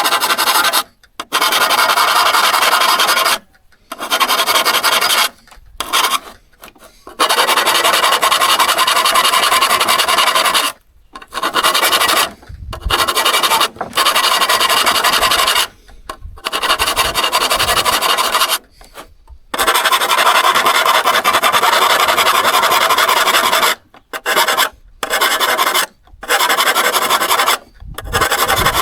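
Steady hand abrasion on a steel saw blade: rubbing and scraping in stretches of one to four seconds, broken by abrupt short gaps.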